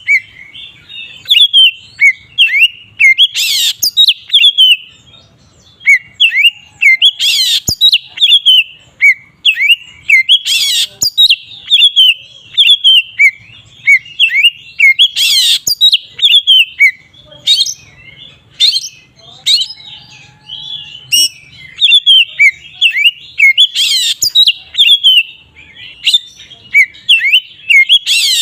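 Oriental magpie-robin (kacer) singing in the full, open 'ngeplong' style: a fast, unbroken run of short, clear, down-slurred whistles, with a loud harsh note every few seconds.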